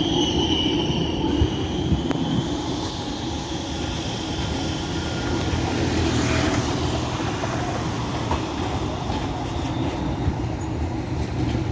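Tram running on the rails with a steady rumble, and a high wheel squeal that fades out in the first second or so.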